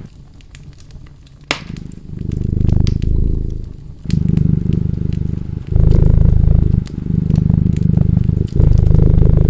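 A cat purring close up in deep, rising-and-falling waves, one per breath, while a wood fire crackles with scattered sharp pops. The loudest pop comes about a second and a half in.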